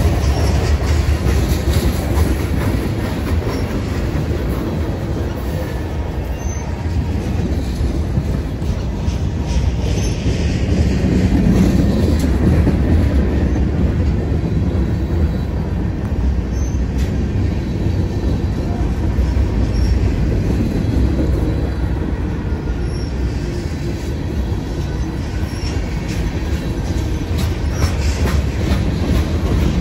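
Freight cars of a passing Canadian National train rolling by on the rails: a steady, loud rolling noise, strongest at the low end, with a few faint, brief high-pitched wheel squeals scattered through it.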